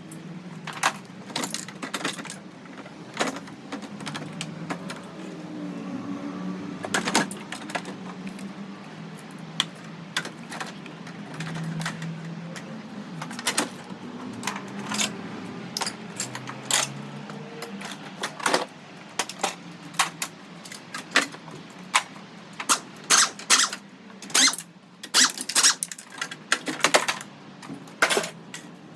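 Hand tools and metal car parts clinking and knocking as a car is dismantled, over a steady low hum; the knocks come faster near the end.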